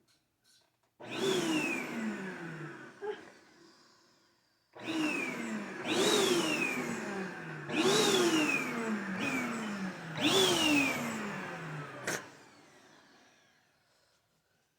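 Vacuum cleaner switched on about a second in and left to wind down, switched on again a little before the five-second mark, then switched off with a click about twelve seconds in and spinning down. Repeated falling whistling tones sweep down through the motor noise every second or two.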